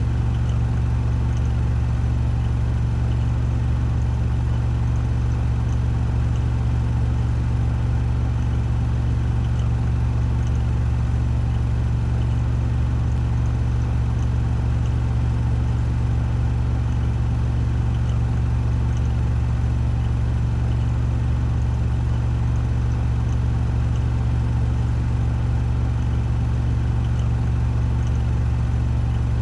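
Washing machine on a 1400 rpm spin cycle, the drum spinning at full speed: a steady low hum and whir that holds even, with no change in speed.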